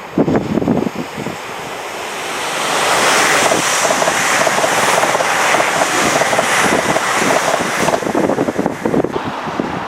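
A train passing the lineside, its noise swelling from about two seconds in and falling away near the end, with gusts of wind buffeting the microphone, strongest at the start.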